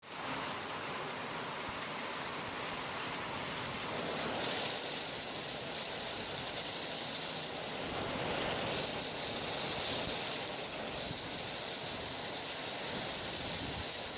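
Heavy rain falling, a steady hiss with a higher hiss that swells in and out three times.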